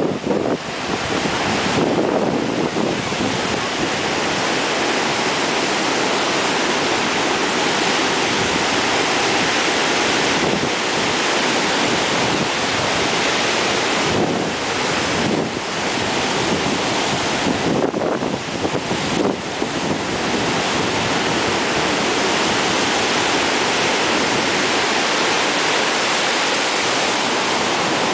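Storm surf breaking under strong hurricane wind, a loud steady rush, with the wind buffeting the microphone.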